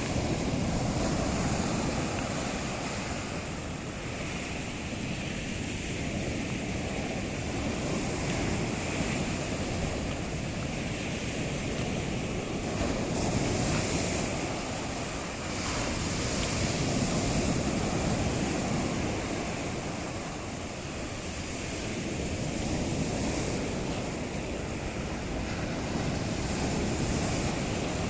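Sea surf: waves breaking and washing up the shore in a continuous rush that swells and ebbs every few seconds.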